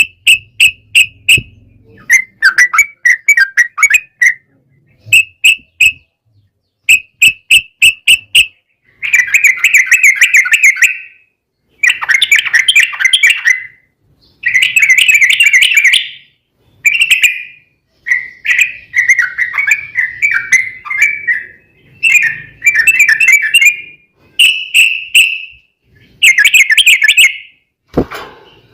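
Yellow-vented bulbul (trucukan) singing loud, rapid bubbling phrases of quickly repeated whistled notes, each burst lasting one to two seconds with short pauses between, the fast 'ropel' song used as a lure to make other bulbuls answer. A sharp click sounds near the end.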